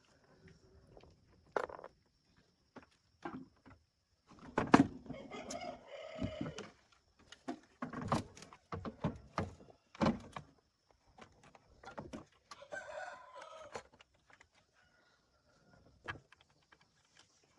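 A rooster crowing twice, each call lasting a second or two, among scattered sharp knocks and clicks.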